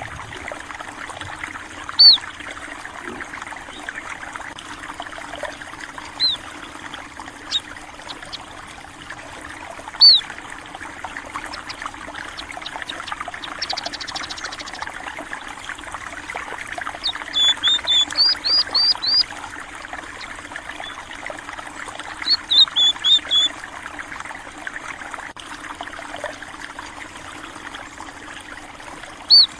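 Steady running water of a small stream, with small rice-field birds (burung pipit) giving short high chirps every few seconds and two quick runs of chirps past the middle. There is also a brief buzzy trill near the middle.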